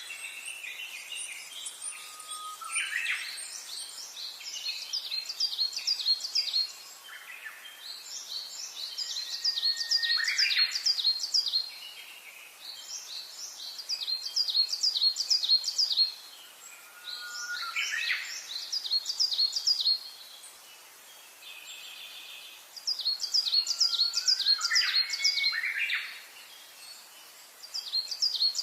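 Songbirds singing: bouts of rapid, high chirping notes, each bout lasting about two to three seconds and repeated every few seconds, with lower upward-gliding whistles in between.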